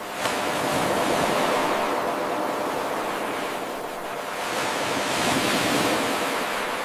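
Ocean waves surging and washing in, swelling twice and easing off between. The sound is an eight-second loop of surf that restarts with a sudden jump just after the start.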